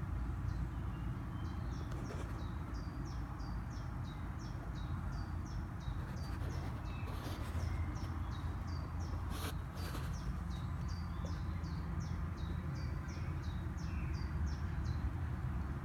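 A bird chirping over and over, short falling high notes at about two a second, over a steady low background rumble. A few brief rustling noises come around the middle.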